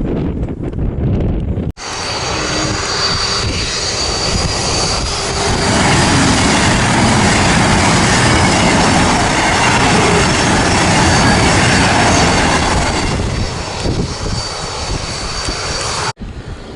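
Jet aircraft engine noise with a steady high whine over a dense rush. It starts abruptly about two seconds in, swells louder through the middle, eases off, and cuts off suddenly near the end.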